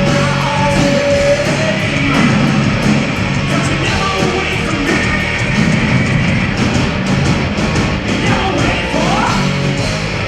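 Loud rock band music: guitar and drums with a singing voice, the drums beating out a steady rhythm.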